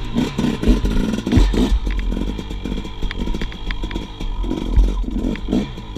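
KTM 300 XC-W's two-stroke single-cylinder engine being ridden off-road, revving in uneven bursts rather than holding a steady note. Several heavy low thumps and a few sharp clicks sound over it.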